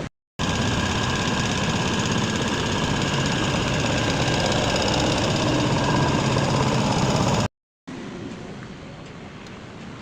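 An engine running steadily at idle for about seven seconds, cut in and out abruptly, followed by quieter background with a few light clicks.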